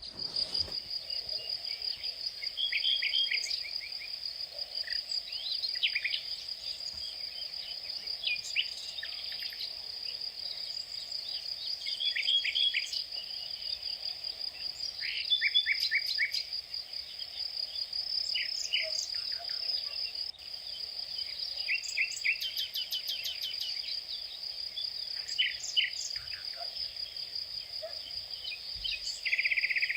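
A steady high-pitched insect trill, with birds calling over it in short runs of quick chirps every few seconds. A brief buzzy rattle comes near the end.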